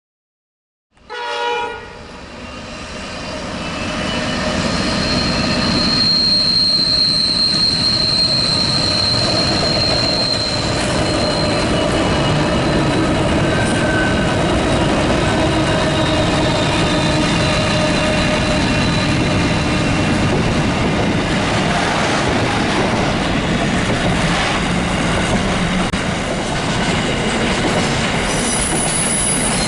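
A train: a short horn blast as the sound cuts in about a second in, then the train's running noise builds over a few seconds and holds steady and loud. A high wheel squeal sounds for a few seconds early on.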